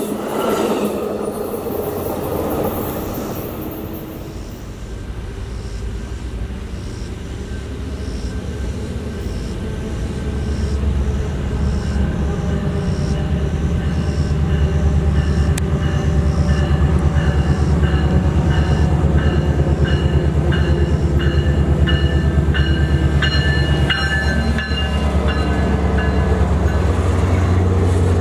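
An Amtrak passenger train rushes past, its last car going by at the start, and the sound fades away. A Virginia Railway Express commuter train's diesel locomotive then comes in, its low engine drone building and holding, with a steady run of clicks and some high wheel squeal as the bilevel coaches roll along the platform.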